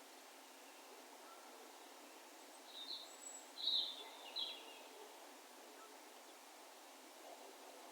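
A few short, high-pitched bird calls in a quick cluster a few seconds in, over a faint steady hiss of open-air background.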